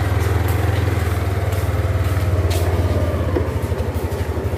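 Motorcycle engine idling close by: a loud, low, even throb with a fast pulse.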